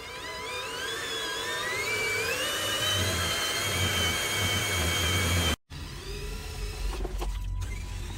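Small electric motor of an RC construction model whining, rising in pitch over the first two seconds and then holding steady. It cuts off abruptly about two-thirds of the way in, and a lower motor sound follows.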